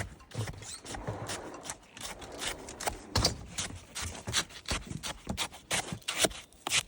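Snow and condensed milk being stirred together in a bowl: rapid, irregular scraping and clicking of the utensil through the packed snow, several strokes a second.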